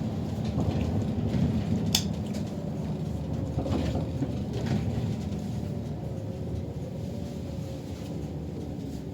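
City bus driving, heard from inside: a steady low rumble of engine and road with a sharp click or rattle about two seconds in and a faint wavering whine later on.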